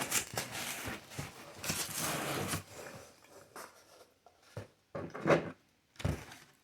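Close-up eating sounds: chewing and mouth noises, in irregular bursts that are busiest in the first half and thin out towards the end.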